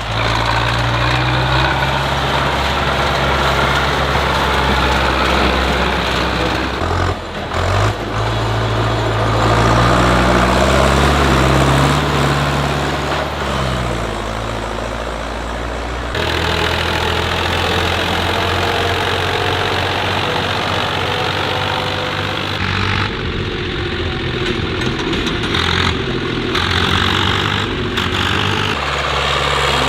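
Tractor engines running, in a run of different clips that change abruptly a few times. The engine speed rises and falls in the first half.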